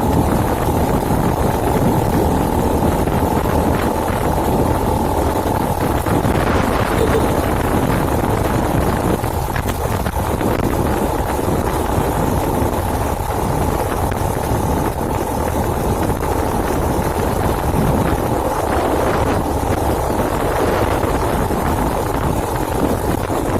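Small 110cc motorcycle engine running steadily while riding, with wind rushing over the microphone.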